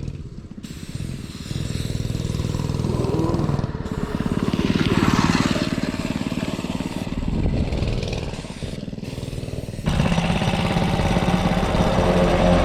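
Engine of a farm or off-road vehicle running and working, its pitch and load changing, then getting louder and higher near the end as it is revved up.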